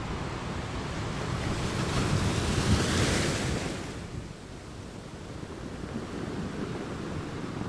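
Ocean surf and wind on the microphone: a rushing noise that swells to a peak about three seconds in, then falls away to a lower steady hiss.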